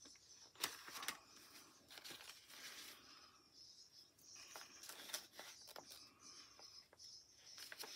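Faint rustling of paper money and envelopes being handled, with scattered light taps and clicks.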